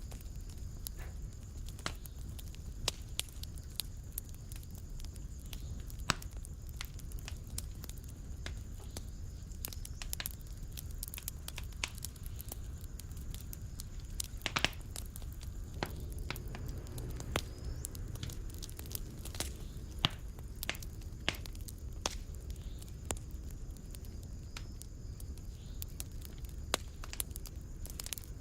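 Wood fire burning in a fireplace: a steady low rumble of flames with irregular sharp crackles and pops, a few much louder snaps among them.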